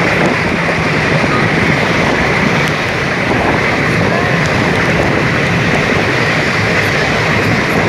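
Steady rushing of wind over the microphone mixed with the running noise of a passenger express train's coach at speed, heard from outside the moving coach.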